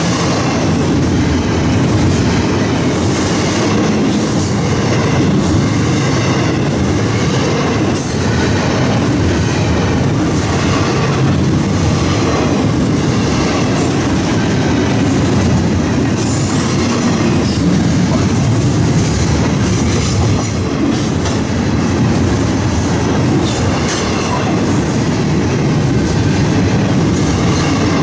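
Double-stack intermodal freight train's well cars rolling past close by: a loud, steady rumble and rattle of steel wheels on the rails, with faint clicks over the rail joints.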